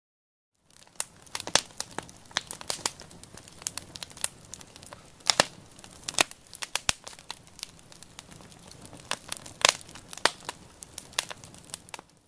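Crinkling handling noise: irregular sharp clicks and crackles over a faint hiss, starting about a second in.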